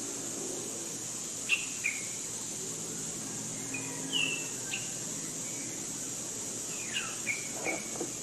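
Outdoor forest ambience: a steady high-pitched insect drone, with short bird chirps scattered through it, two about a second and a half in, a few around four seconds, and a quick cluster near the end.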